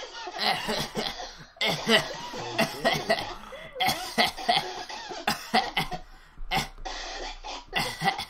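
A few people laughing hard in a run of breathy, cough-like bursts with short breaks between them.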